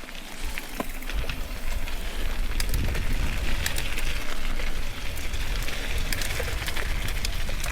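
Mountain bike rolling fast down a wet dirt trail: tyres hissing and crackling over mud and grit with scattered sharp clicks, and wind rumbling on the microphone that builds about a second in and grows stronger as speed picks up.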